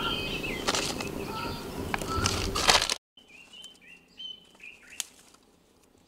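Small birds chirping, with a few short clicks and rustles of hands working kindling in the first half. About halfway the sound drops much quieter, leaving faint chirps and a single click.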